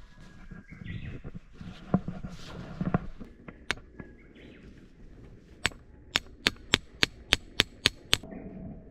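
Tent peg being hammered into the ground: a quick, even run of about nine sharp strikes near the end, after rustling and a few scattered knocks.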